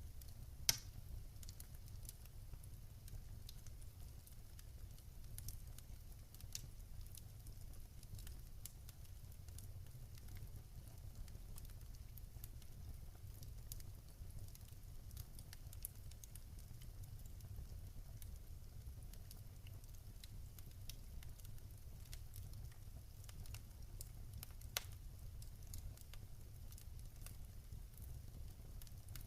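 Wood fire burning in a fireplace: scattered small crackles and ticks over a low steady rumble. Two louder sharp pops stand out, one right at the start and one near the end.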